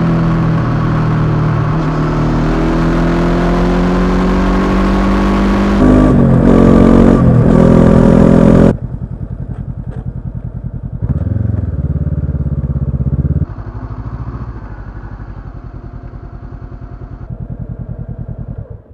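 Honda CB500X parallel-twin engine with a Staintune exhaust, running under way with wind rush. Its pitch rises and falls about six to eight seconds in. Near nine seconds the loud running and wind cut off suddenly, leaving a quieter, evenly pulsing idle, which stops at the very end.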